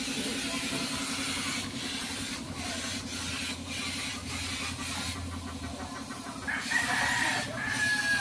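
A steady low hum with a slight pulsing and a hiss, and near the end a long, held, high-pitched animal call.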